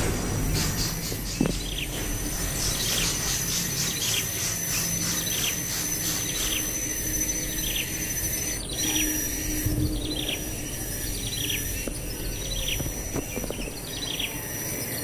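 A bird calling over and over in short falling chirps, about one and a half a second, over a steady high-pitched insect drone.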